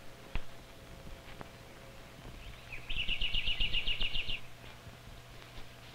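A bird's rapid chattering call: a quick, even run of about a dozen sharp high notes, about ten a second, lasting just over a second about three seconds in, over a low steady hum.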